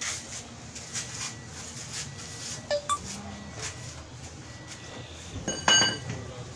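Metal clinks and taps of hand tools and parts being handled during car steering repair work, ending in one loud ringing metallic clink about a second before the end.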